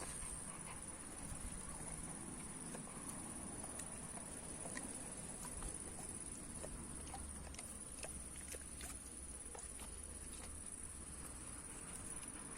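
A dog's paws and claws tapping and clicking irregularly as it moves about, over a low steady rumble.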